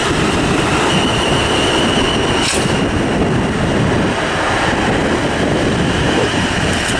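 A South Western Railway Class 450 Desiro electric multiple unit moving through the station, giving a steady loud noise of wheels on rails. A thin high tone rises above it for a second or two, and there is a single sharp click midway.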